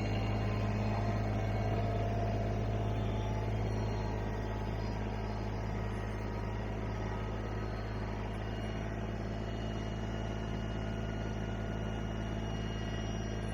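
Vehicle engine running at a steady speed while hauling a load of firewood, with an even low hum that eases slightly after a few seconds.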